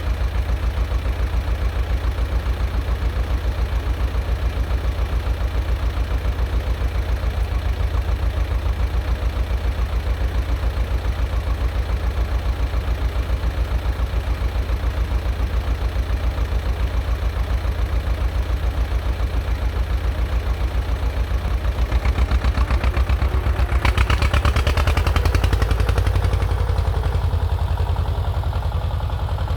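Two-cylinder air-cooled diesel of a T-16 tractor running with a steady low, pulsing beat. About 22 seconds in it grows louder and harsher for a few seconds, then settles back.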